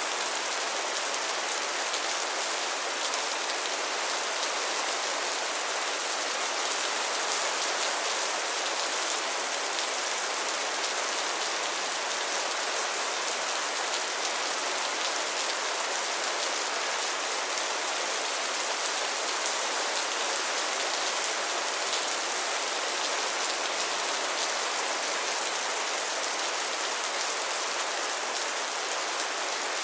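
Steady rain falling and pattering on a surface, an even hiss with no thunder or breaks.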